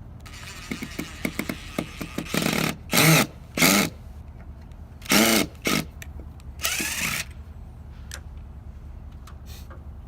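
A hand-held power drill run in about six short trigger bursts, each spinning up and winding down, after a few light clicks of handling.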